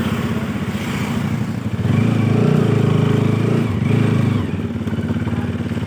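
Motorcycle engine idling with a steady pulsing beat, growing louder for about two seconds in the middle before settling back to idle.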